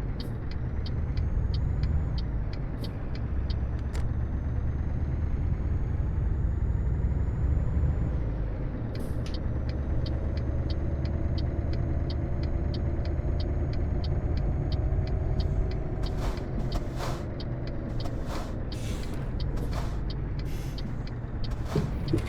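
Scania R730's V8 diesel engine running under way, a steady deep rumble whose pitch rises slowly in the middle, with faint regular ticking and several short sharp noises near the end.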